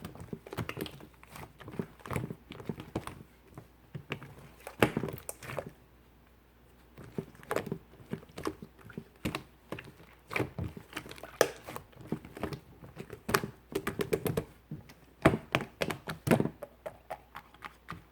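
Slime being squished and kneaded by hand as liquid clay is mixed in, giving irregular sticky clicks and pops, with a short lull about six seconds in.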